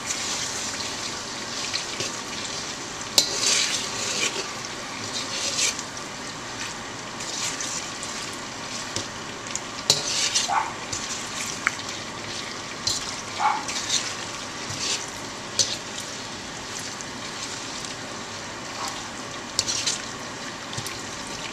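Coated jumbo shrimp and scallops sizzling in oil in a hot wok, a steady hiss. A utensil stirring the seafood around the wok clicks and scrapes now and then.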